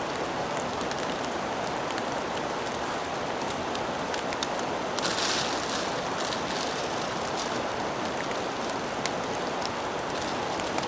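Steady rain falling in woodland, with scattered drops ticking. About halfway through there is a brief, louder hiss.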